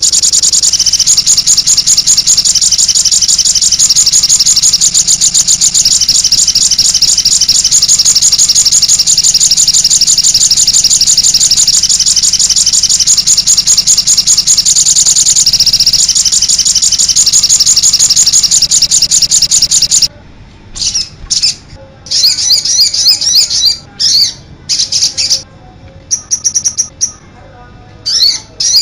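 Songbird song from a masteran tutoring recording for caged songbirds. About 20 seconds of dense, high-pitched, rapid chattering trills, then shorter phrases with pauses between them.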